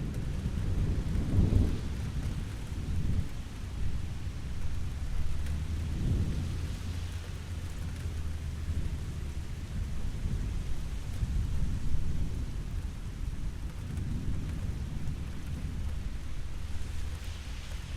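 Steady rain hissing, with low rolls of thunder rumbling in and out, strongest near the start and again around a third of the way in.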